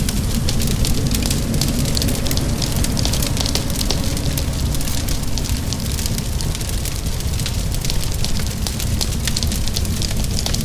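Wood fire crackling with many small irregular pops and snaps over a steady low rumble, mixed with a hiss of rain.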